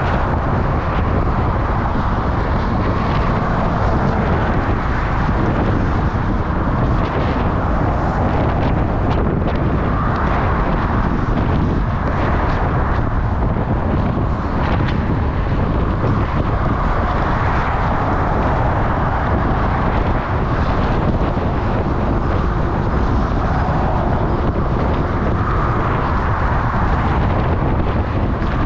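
Steady wind rushing over the microphone of a camera on a moving bicycle, mixed with constant road and traffic noise.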